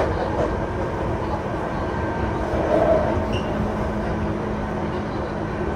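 Interior running noise of a Tokyu 5050 series commuter train with Hitachi IGBT-VVVF traction control: a steady rumble of wheels on rail with a constant hum. There is a brief louder swell about halfway through.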